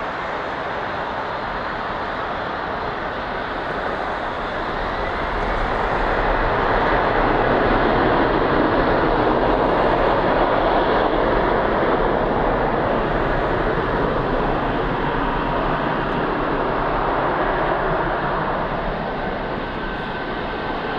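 Jet airliner's engines at takeoff power on the departure roll: a broad rushing noise that swells about four seconds in, stays loudest for around ten seconds, then eases off near the end.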